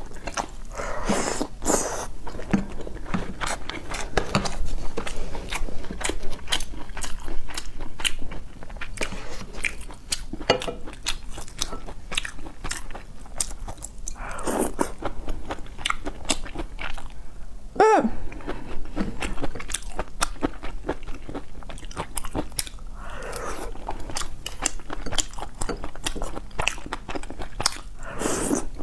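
A person chewing and crunching food, with many sharp crunches all the way through. A short pitched sound that falls in pitch comes about eighteen seconds in.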